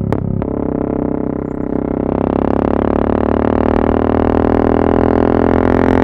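Yamaha MT-03 660's single-cylinder engine through an exhaust with the dB-killers removed, running under way. Two sharp cracks just after the start; about two seconds in the note steadies and grows a little louder as the bike pulls.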